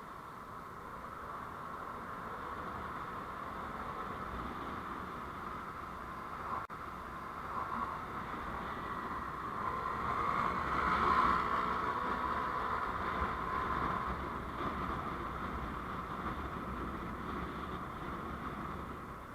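Steady vehicle running and road noise picked up by an onboard driving recorder, swelling to its loudest about ten seconds in and then easing back.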